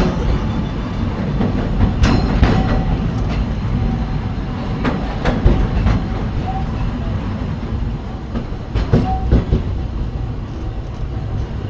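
Walt Disney World Railroad steam train running along its track: a steady low rumble with irregular clicks and clacks from the wheels over the rail joints.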